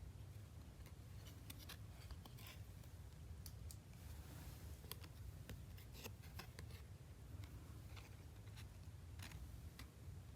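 Faint handling of basketball trading cards and their packs: scattered soft clicks and a brief rustle over a low room hum.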